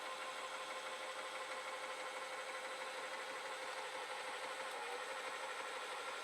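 A motor running steadily with an even, constant hum.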